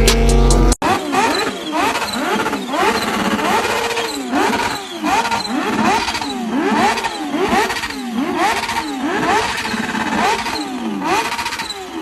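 Sport motorcycle engine revved over and over, its pitch climbing and dropping back about once every second. Under a second in, a loud, deep-toned sound cuts off abruptly before the revving.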